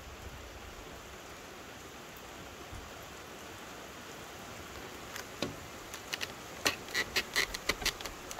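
Steady rain falling, an even hiss. In the last few seconds a quick run of a dozen or so sharp clicks and taps sits on top of it.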